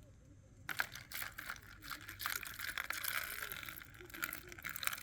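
A plastic water bottle crinkling as it is squeezed and handled, with water being poured out, the crackling starting about a second in and running on alongside a steady splashing hiss.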